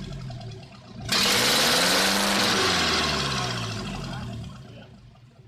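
Toyota 3Y four-cylinder petrol engine revved sharply about a second in, then its speed and pitch falling away as it winds down until it is nearly quiet near the end.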